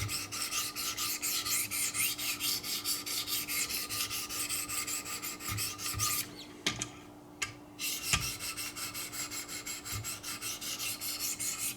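800-grit diamond stones of a Wicked Edge guided sharpening system stroking along a clamped knife edge: a steady rasping scrape, about three strokes a second. About six seconds in the strokes stop for a second and a half, with a few light clicks, then resume.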